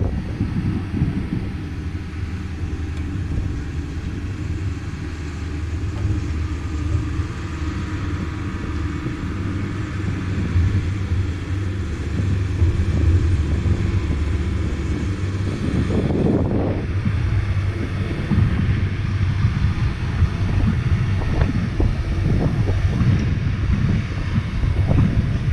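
Cessna 140A's piston engine and propeller droning steadily in flight, with wind rumbling over the microphone and a brief louder gust about two-thirds of the way through.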